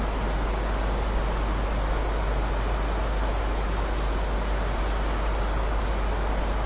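Steady heavy rain: an even, unbroken hiss with a deep low rumble underneath.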